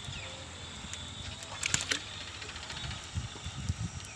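Diesel tractor engine running steadily at a low note, with a sharp clatter a little before halfway and a few low thumps near the end.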